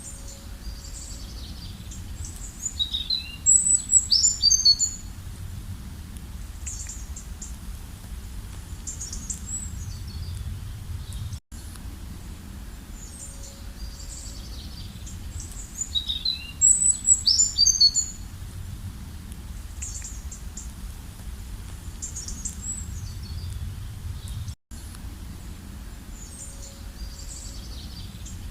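Small birds chirping and trilling in high-pitched calls over a steady low rumble, with a loud flurry of chirps twice. The same stretch repeats about every 13 seconds with a brief dropout at each restart: a looped birdsong recording.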